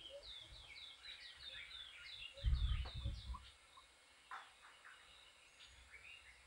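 Several small birds calling, a quick run of short chirps and trills that thins to scattered calls after about three and a half seconds. A loud low rumble about two and a half seconds in lasts roughly a second.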